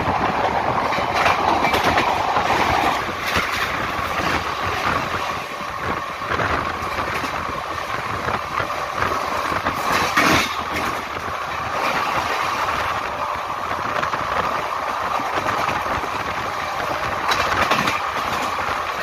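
Express train running at speed, heard from an open coach door: a steady rumble of wheels on rail mixed with wind, with sharp clacks as the wheels cross rail joints and points, the loudest about ten seconds in.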